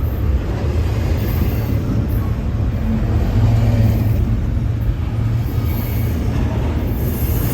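Diesel train locomotive running nearby, a steady low rumble.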